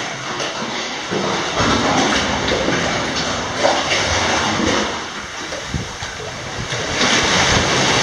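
Sea waves surging and sloshing, with the water dropping back about two thirds of the way through and surging up again near the end.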